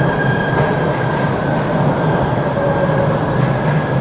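MBTA Red Line subway train on the rails, its wheels giving a steady high squeal over the loud, continuous rumble of the cars. A second, lower squeal joins briefly in the middle.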